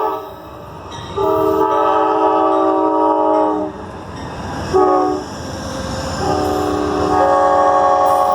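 Amtrak passenger locomotive's multi-tone air horn sounding a chord in a long, long, short, long pattern (the end of one long blast, then a long blast, a short one and another long one), the grade-crossing warning signal, over the low rumble of the arriving train.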